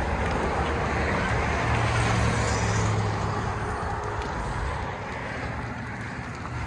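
Toyota 4Runner's 4.7-litre V8 running through a 14-inch Magnaflow muffler as the vehicle drives, with a steady low exhaust note over road noise. The note swells a little about two seconds in, then eases off.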